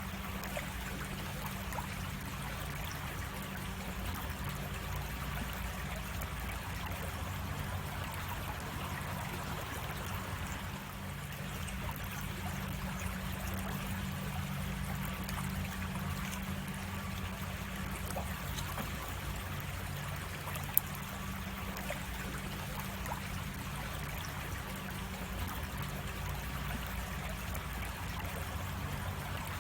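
Creek water flowing steadily, with a single sharp click about two-thirds of the way through.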